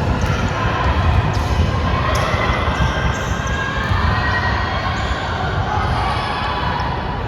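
Sounds of a basketball game in play: the ball bouncing on the court amid a steady din of players' calls and spectators.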